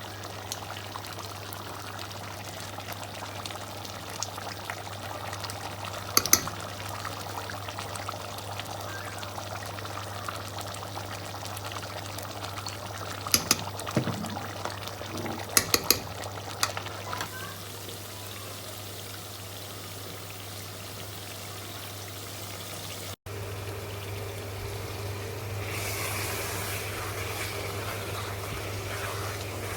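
Liquid pouring and trickling into a cooking pot, with a few sharp clinks of a utensil against the pot; after a cut late on, a slightly louder, steady hiss.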